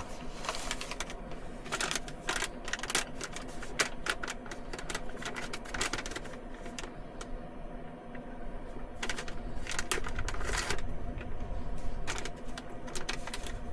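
Irregular crinkling and clicking of plastic food packaging being handled and opened, over a steady low hum.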